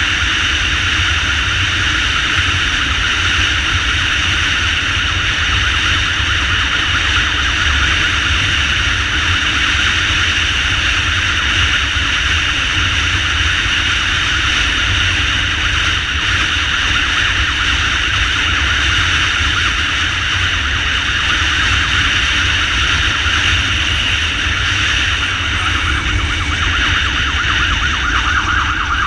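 Ambulance motorcycle riding with its siren on, a steady rush of wind and engine rumble under a high siren tone. Near the end the siren switches to a fast warble.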